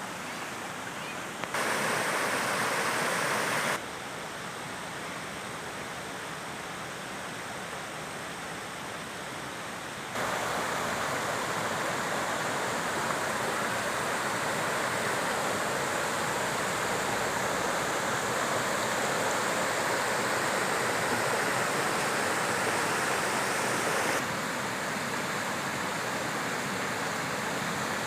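Steady rush of flowing water from a stream or small waterfall. Its level jumps abruptly up or down several times.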